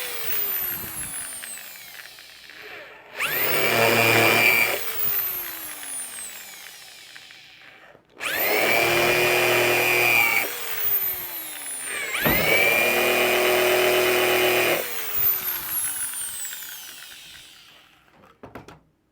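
Power drill with a countersink bit boring screw holes into wood, in three bursts. Each burst whines up to speed, runs, and then winds down with a falling whine after the trigger is released. The start holds the end of an earlier burst winding down.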